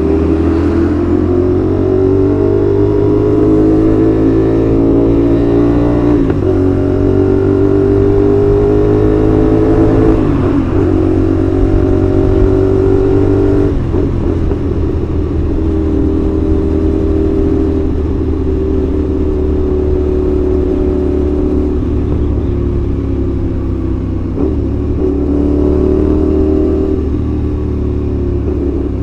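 CFmoto 450SR's 270-degree-crank parallel-twin engine pulling through the gears under way: the engine note climbs, drops briefly at each of several gear changes, and climbs again.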